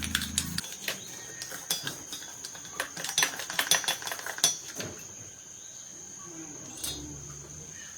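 Small metal parts and tools clinking and clattering against each other in a rapid run of sharp clicks, thinning out after about five seconds, over a steady high-pitched whine.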